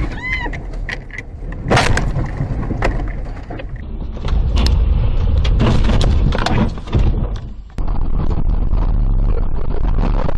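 Car crash in dashcam recordings: several sharp impact bangs in the first few seconds, then loud rough vehicle and road noise, with an abrupt change near the end.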